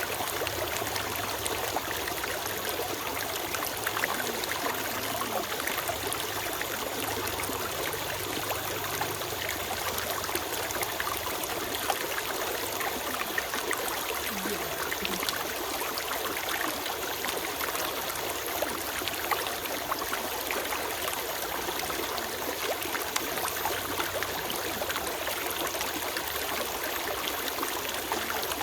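A small stream running and trickling over stones, a steady, even rush of water with small splashes.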